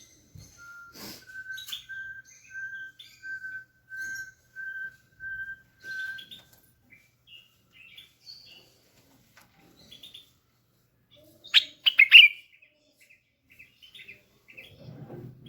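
Bulbul song and calls. Over the first six seconds there is a run of about nine short whistled notes on one pitch, evenly spaced, followed by scattered short chirps. About twelve seconds in comes a loud, sharp burst of notes.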